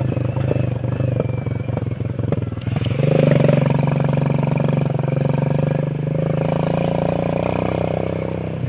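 Small motorcycle engine running on the move, with a steady drone and rapid firing. About three seconds in it gets louder and its pitch steps up as the engine is given more throttle.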